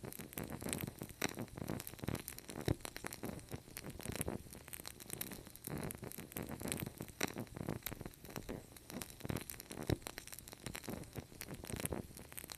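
Wood fire crackling: a dense run of irregular pops and snaps over a soft hiss, with a few sharper snaps standing out.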